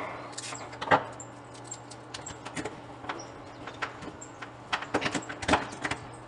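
Irregular plastic clicks and knocks of a small electrical contactor being handled and reassembled after dirt is cleaned from its magnetic core, with one sharp knock about a second in and a quick run of clicks near the end.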